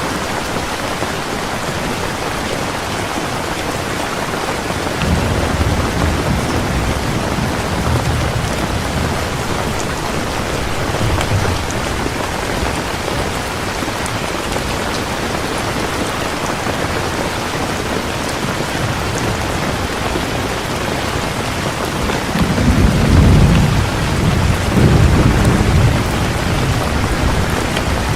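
Heavy rain falling steadily, with low rolls of thunder about five seconds in and a louder rumble near the end.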